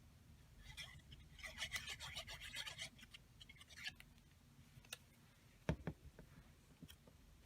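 Paper being rubbed and scratched for about two seconds as hands work over a journal page, then a few light taps and one louder knock on the work surface.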